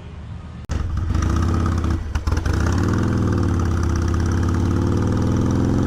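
Harley-Davidson Street Bob's V-twin engine running at a steady idle. It comes in abruptly under a second in and dips briefly around two seconds in.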